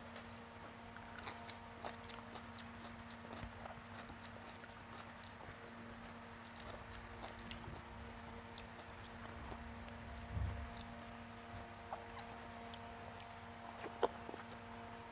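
Close-up mouth sounds of eating rice and ridge gourd in poppy-seed paste by hand: soft wet chewing with small clicks and smacks, and fingers mixing the rice, over a faint steady hum. A low thud comes a little past ten seconds in, and a sharp click near the end.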